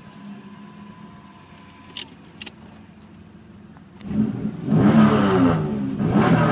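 A 2002 Chevy Camaro's 3.8-litre V6 idles through its dual exhaust, then is revved up twice in quick succession starting about four seconds in.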